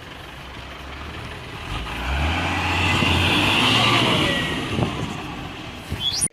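Truck engine running. Its low note steps up about two seconds in, and the sound swells to its loudest around three to four seconds before easing off.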